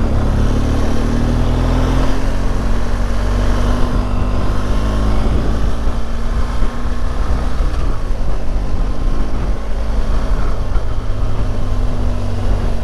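BMW R1200GS Adventure's boxer-twin engine running steadily at low revs while crawling in heavy traffic, with road and wind noise.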